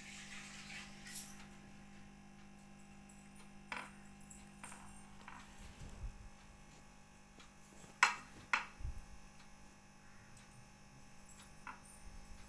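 Scattered light clicks and taps of small tools and parts being handled during bench repair of an LED light, the two sharpest close together about eight seconds in, over a steady low electrical hum.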